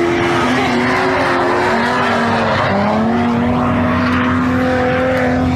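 Drift car's engine held at high revs, its pitch holding steady and then shifting to a new level several times, over a loud continuous hiss of tires skidding sideways.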